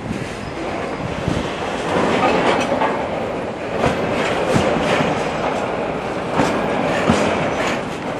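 Freight train rolling past, its wagon wheels clacking over rail joints in irregular knocks above a steady rumble.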